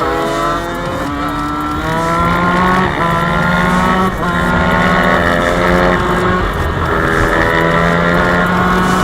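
Off-road motorcycle engine accelerating hard through the gears: its pitch climbs and drops back at each shift, about once a second.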